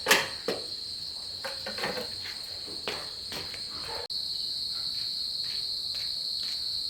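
Crickets chirring steadily in a high, even drone, with a few sharp knocks and clicks over the first few seconds. The sound drops out for an instant about four seconds in, then the chirring carries on a little louder.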